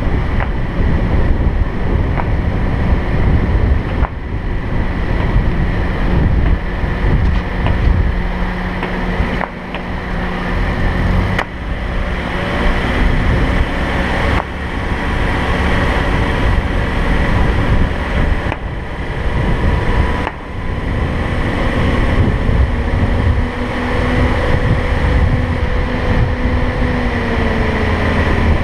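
Car driving along a road: steady road and wind noise over the engine, with a few brief knocks. Near the end the engine's pitch rises and then falls.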